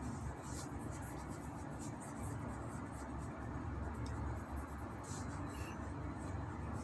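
Hands working small pieces of modelling clay on a work surface: faint rubbing and light scratchy touches a few times, over a steady low hum.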